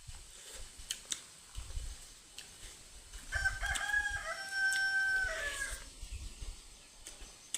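A rooster crowing once, a single held call of about two and a half seconds starting a little over three seconds in.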